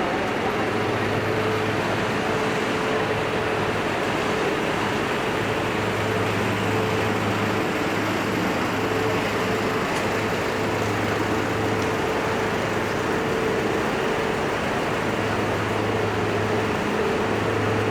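Steady urban street noise: a continuous rush like traffic, with an unbroken low mechanical hum and a faint steady tone above it.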